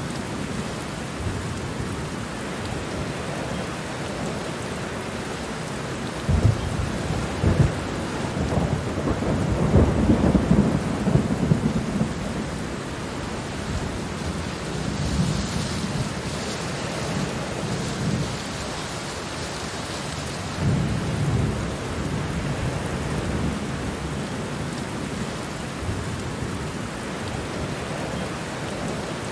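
Steady rain falling, with thunder rumbling low underneath: a long roll of thunder a few seconds in, and a shorter one later.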